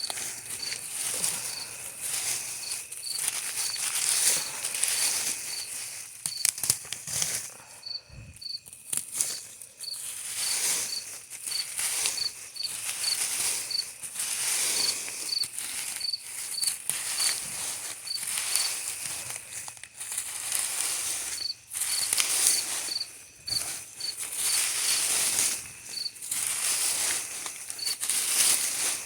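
Repeated scraping and rustling strokes of yard work in soil and rocks, coming every second or two, with a cricket chirping steadily about twice a second.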